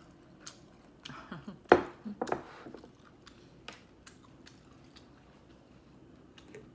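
Close-up eating sounds: chewing with a few sharp clicks, the loudest pair about two seconds in, then quieter chewing with only faint, scattered clicks.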